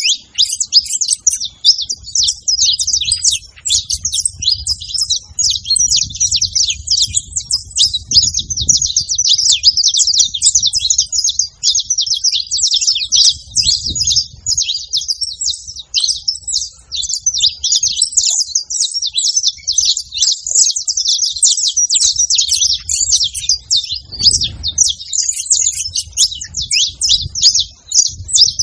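Saffron finch singing: a long, nearly unbroken run of rapid, high chirping notes.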